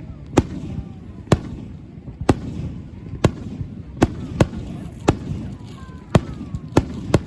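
Aerial fireworks bursting, a string of about ten sharp bangs, some coming in quick pairs.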